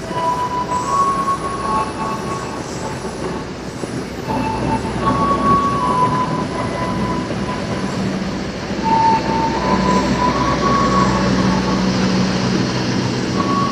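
Argo Bromo Anggrek passenger train rolling through the station without stopping: a steady rumble of wheels on rail, broken by many short, high wheel squeals. A steady low hum joins in the second half.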